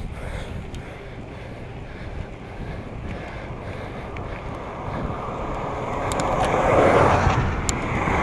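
Wind buffeting the microphone during a bike ride: a steady low rumble that swells into a louder rush about six to eight seconds in.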